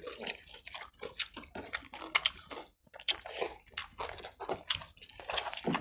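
People eating chicken curry and rice by hand: an irregular run of short chewing and biting sounds as a chicken piece is bitten.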